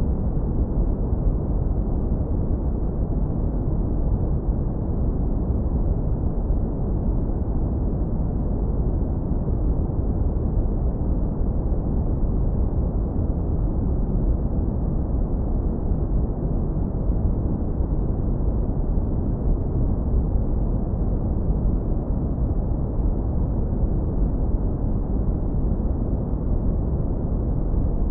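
Continuous synthetic brown noise, heavily low-pass filtered so that only a deep, warm rumble remains, steady and unchanging throughout.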